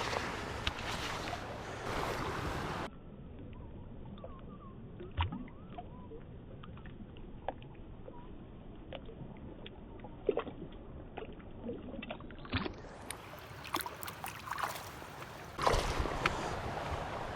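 River water moving and splashing, with wind on the microphone and small scattered clicks and knocks. The middle stretch is quieter and muffled.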